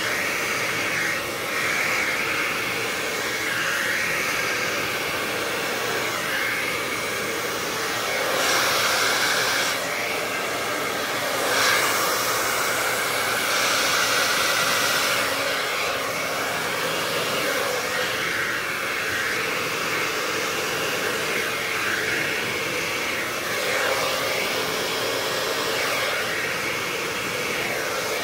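Hair dryer blowing steadily, pushing poured acrylic paint across the canvas in a Dutch pour. Its hiss swells louder a few times about a third of the way in, as the airflow is moved around.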